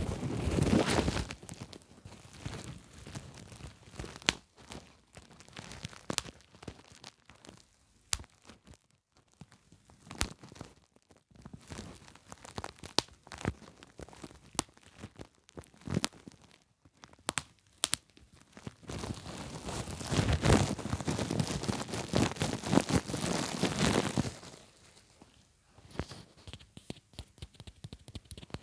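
Plastic bubble wrap being handled close up: crinkling and scrunching, with sharp single pops scattered through and a longer stretch of dense crackling from about twenty to twenty-four seconds in.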